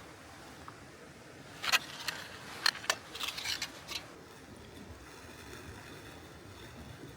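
A handful of sharp clicks and knocks with some rustling, starting about two seconds in, over a steady faint hiss.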